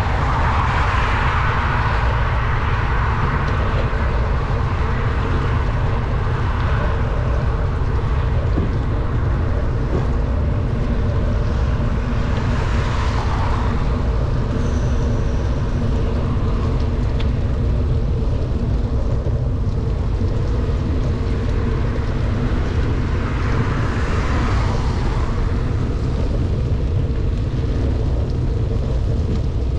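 Heavy wind rumble on the microphone of a bicycle riding downhill, with a steady hum underneath. Traffic noise swells up and fades three times, near the start, about 13 seconds in and about 24 seconds in.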